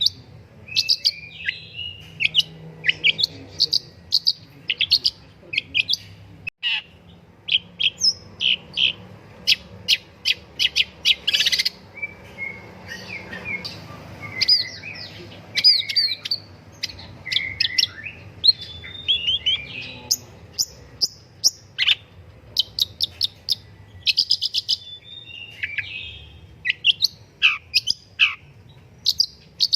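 Long-tailed shrike (pentet) singing a fast, varied song of sharp chirps and short chattering runs, with a few quick downward-sweeping notes. A faint low hum runs underneath.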